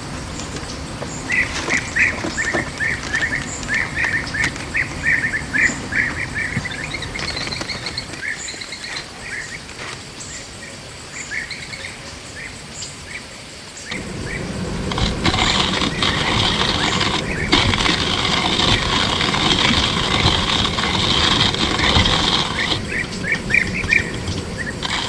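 A small bird chirping in quick repeated runs. About fourteen seconds in, a loud steady rushing noise comes up and covers it, then drops back near the end as the chirping returns.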